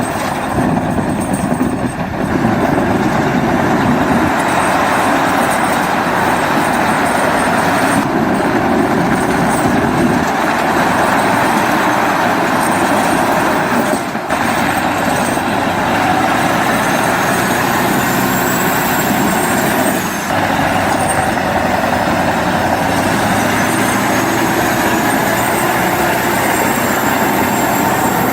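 Heavy four-wheel-drive timber truck's engine running hard under a full load of logs, with a trailer in tow, labouring through mud and snow. A thin high whine rises and falls now and then in the second half.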